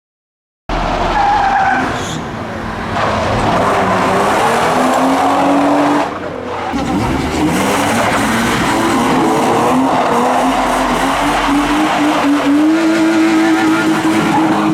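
A modified car's engine revving hard with tyres screeching as it spins its wheels. The engine note climbs in steps, and the sound starts abruptly about a second in.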